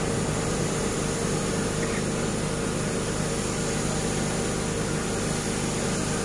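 Steady machine running, an even mechanical noise with a constant hum that does not change.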